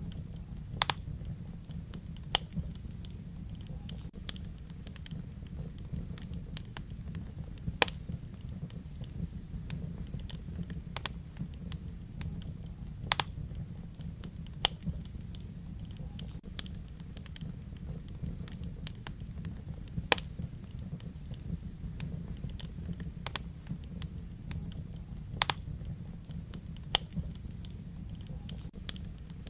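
Wood fire in a fireplace crackling: irregular sharp pops and snaps, a dozen or so standing out, over a steady low rumble of the flames.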